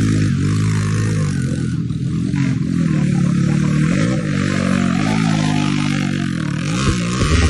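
Cubcross motorcycle engine running hard, its pitch rising and falling over and over as the rider revs and shifts, with a few sharper rev jumps near the end.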